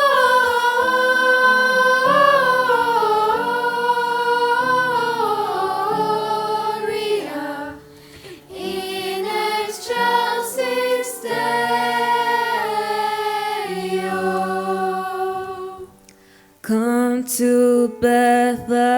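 Choir singing a carol in harmony, in long flowing sung lines, with two short breaks between phrases.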